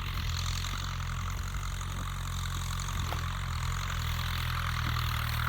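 Kubota M6240SU tractor's four-cylinder diesel engine running steadily under load, pulling a rotary tiller through a wet paddy field in what is reckoned to be second gear.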